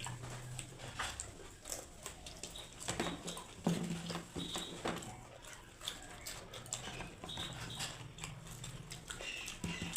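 Close-up eating sounds: people chewing and crunching vegetable chops and salad, with irregular wet clicks and crackles, over a steady low hum.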